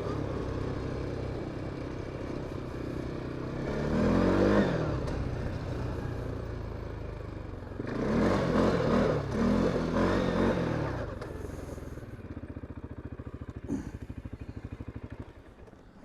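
CFMOTO CFORCE 550 quad bike's single-cylinder engine running, its revs rising and falling twice, then dropping to a slow, even idle that dies away near the end.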